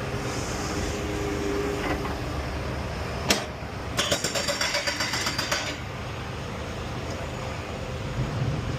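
Semi-truck's diesel engine running steadily at idle. A single sharp knock about three seconds in, then a fast rattling hammering for under two seconds.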